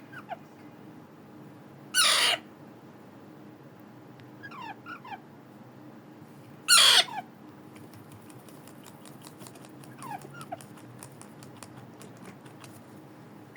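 Baby Alexandrine parakeets (raw parrots) calling while being hand-fed: two loud, harsh begging screeches about two and seven seconds in, with softer short downward chirps between them. A run of faint rapid clicks follows in the second half.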